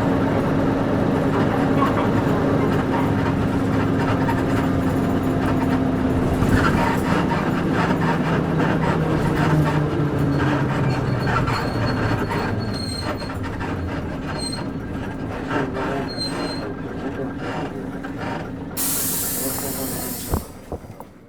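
KC-UA460LSN route bus with its PG6 diesel engine slowing down, the engine note falling and fading over the first dozen seconds. Near the end a loud burst of compressed-air hiss lasts about two seconds, with a single thump, as air is let off from the brakes or door.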